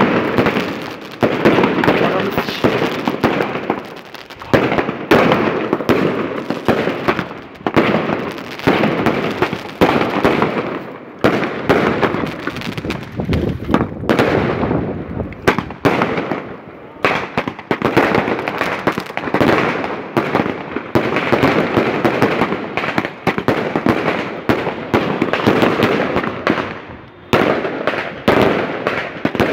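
Fireworks going off in a continuous barrage of overlapping bangs and crackles, with no pause.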